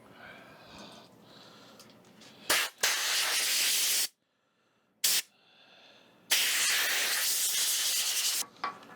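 Compressed-air blowgun hissing in several bursts, the longest about two seconds, with a sudden break in between.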